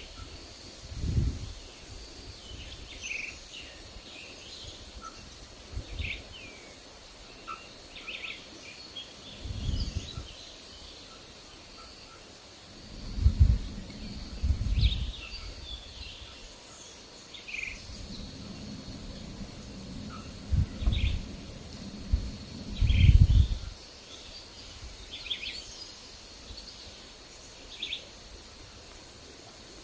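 Wild birds chirping in short, scattered calls over a faint steady high-pitched insect drone, with gusts of wind rumbling on the microphone every few seconds, loudest in a cluster past the middle.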